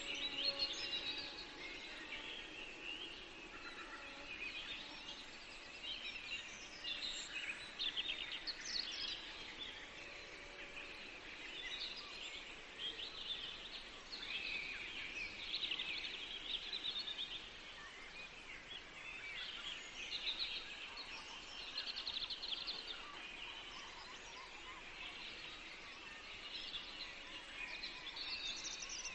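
Several songbirds singing and calling at once in a forest, a steady chorus of short chirps and trills with no single bird dominating.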